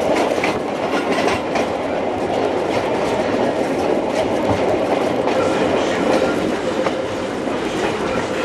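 750 mm narrow gauge train running steadily, a continuous rumble with the clicking of wheels over rail joints and a faint steady tone.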